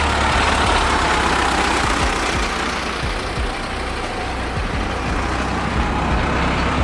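Conversion van engine running and road noise while driving, a steady low hum under a continuous rushing noise.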